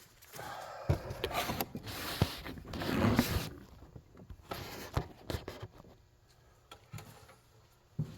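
A motorcycle tire being worked onto its wheel rim: a few seconds of rubbing and scraping with sharp knocks, then scattered lighter clicks and taps.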